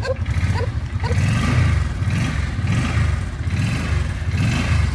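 Suzuki VL800 Volusia's V-twin engine running through exhaust pipes drilled with holes, blipped several times from idle so the exhaust note rises and falls.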